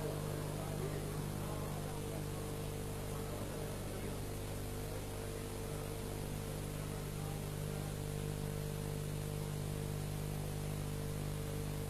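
Steady electrical hum with a constant hiss from the recording's sound system, with no voice over it.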